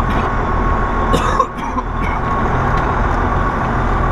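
Semi truck's diesel engine and road noise heard inside the cab while driving, with a steady whine over the rumble. About a second and a half in there is a short knock and the sound drops briefly before carrying on.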